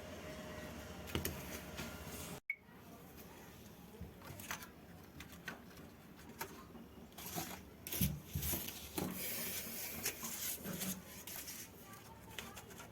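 Irregular small clicks, taps and rustles of hands handling materials. All sound cuts out for an instant about two and a half seconds in.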